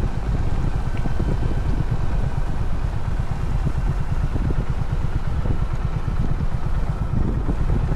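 Honda CB350 H'ness's air-cooled single-cylinder engine running steadily under way, a dense low pulsing with road and air noise above it.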